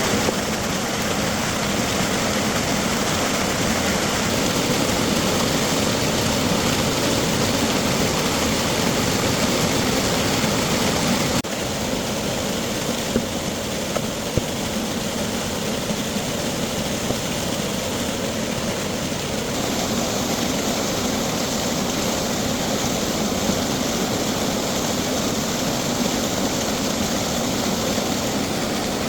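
Steady whirring machine noise, with a sudden slight drop in level about eleven seconds in and a few faint clicks after it.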